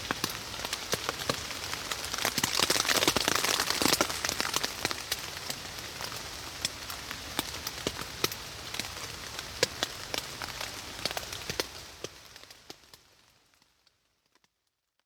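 Rain falling on a tarp shelter: a steady hiss scattered with many sharp drop hits, fading away near the end.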